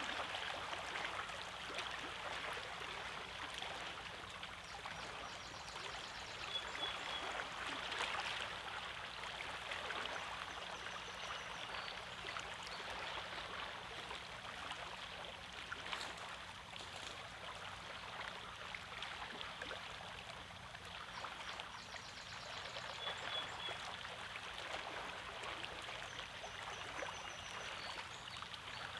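Small waves washing and lapping against a rocky lakeshore: a steady, continuous splashing and trickling of water over stones.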